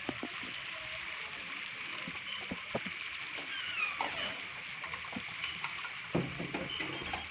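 A steady hiss like running water, with a few thin bird-like chirps that glide downward and scattered soft knocks.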